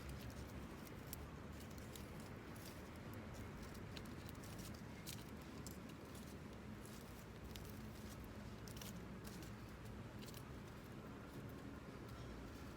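Small wood fire crackling in a camp fire stand: scattered, irregular light pops and ticks over a faint low background rumble.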